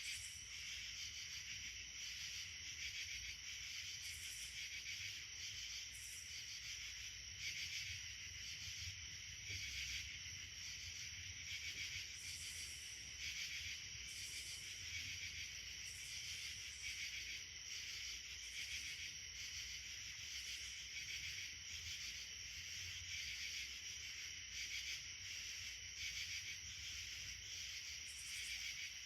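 A continuous chorus of insects: a steady high-pitched drone with pulsing calls repeating about once a second, over a faint low rumble.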